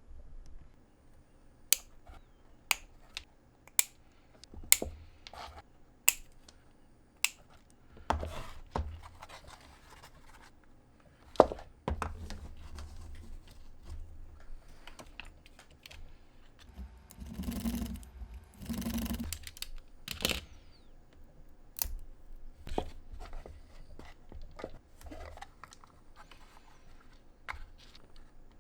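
Hands working small craft materials close to the microphone: a run of six sharp clicks about a second apart, like scissor snips, then irregular rustling and handling noises with one louder click and two longer scraping bursts.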